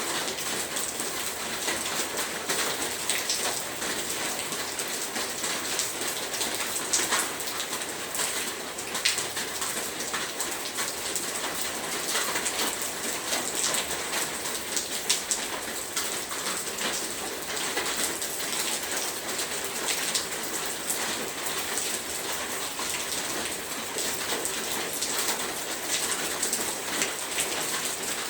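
Heavy rain falling steadily: a dense, even hiss with frequent sharp drop hits.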